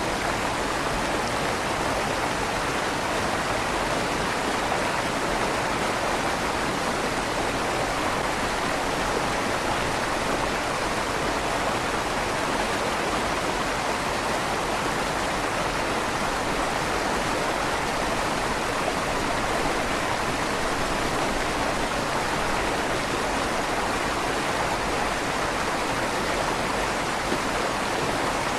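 River water flowing steadily through a stone tunnel beneath a bridge, an even rushing with the slight echo of the stone walls.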